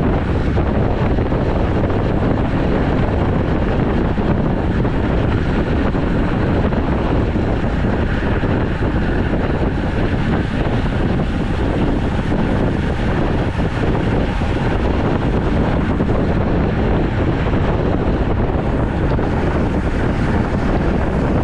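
Steady wind noise on the microphone of a camera carried on a road bike while riding, a constant loud rush.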